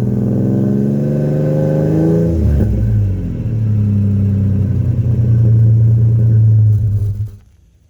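Ford Ranger 4.0 V6 exhaust through an aging Thrush 17658 muffler, with a slightly more complex sound. The engine revs up with the note rising over about two seconds, drops back, then holds a steady note before stopping abruptly near the end.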